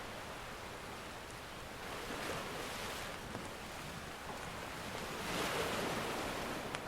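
Ocean surf washing ashore in two swells, over a steady wash of sea noise, with a few small crackles from a wood fire, the sharpest near the end.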